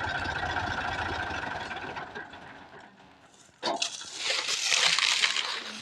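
Tractor engine running steadily, then fading away over the first three seconds. After a brief hush, a sudden harsh hissing noise starts a little past halfway and runs on.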